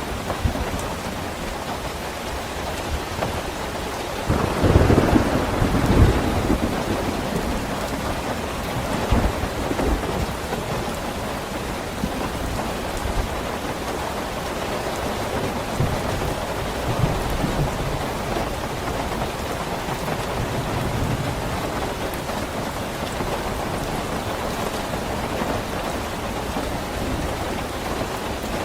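Steady rain, with a rumble of thunder swelling up about four to six seconds in and fainter rumbles later on.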